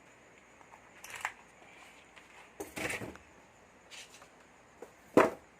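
Tools and small electronic parts being handled and set down on a workbench: a few scattered clicks and clatters, with one sharp, loudest click near the end.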